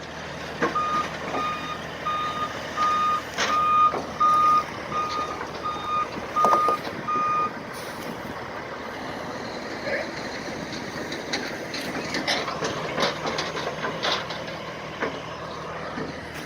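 Heavy vehicle's back-up alarm beeping about eleven times, steadily at about one and a half beeps a second, then stopping about halfway through, over the noise of the vehicle's diesel engine running, with a few knocks.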